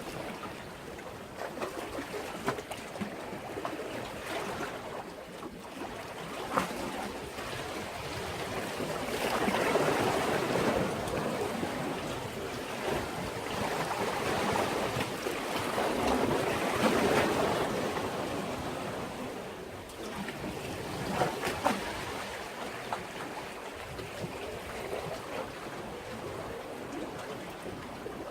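Sea waves washing against a breakwater, swelling and easing, loudest twice near the middle, with small splashes and ticks of water in between.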